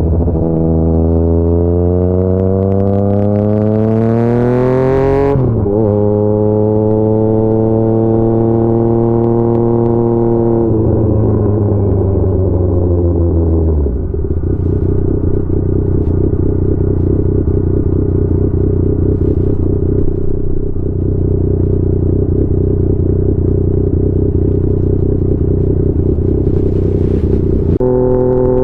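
Yamaha MT-09 inline-three with an SC Projects CR-T exhaust accelerating, its pitch climbing for about five seconds, then a quick upshift with a sharp drop in pitch. It pulls again and then rolls off with falling pitch. For the rest it cruises at a steady rush, and a steady engine tone comes back near the end.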